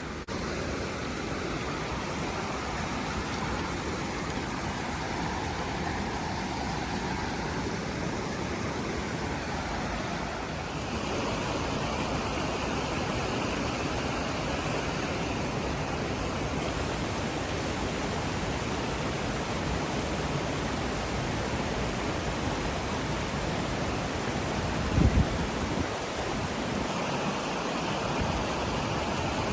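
Steady rushing noise without any tone, a little louder from about a third of the way in, with one short low thump near the end.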